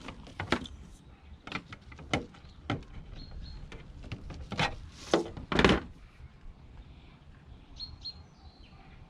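Scattered clicks and knocks of plastic heater parts and hand tools being handled, the loudest a little past halfway. Two faint short high chirps of a bird sound in the background, one about three seconds in and one near the end.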